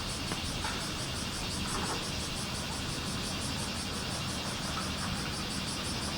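Bear cicadas (kumazemi) singing in a fast, evenly pulsing high-pitched chorus, over a steady low rumble.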